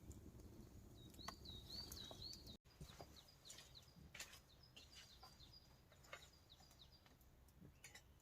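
Faint bird song in the forest: a quick series of repeated warbling notes, then scattered short chirps, over a low background rumble and a few faint clicks. The sound cuts out for an instant about a third of the way in.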